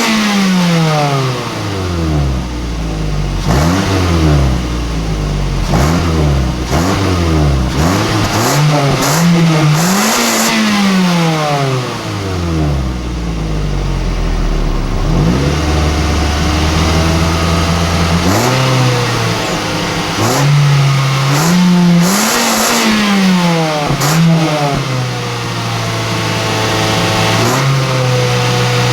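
2009 Mazda 3's four-cylinder engine revved repeatedly through its stock exhaust: a run of quick rev blips that climb and fall back, a settle to idle for a couple of seconds, then revs held steady at a raised speed for several seconds at a time.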